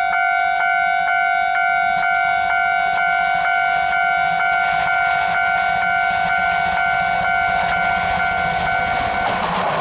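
Steam whistle of the C12 66 steam locomotive held in one long, steady blast, stopping about nine and a half seconds in. Faint regular clicks come about three times a second, and the hiss and rumble of the passing train build up toward the end.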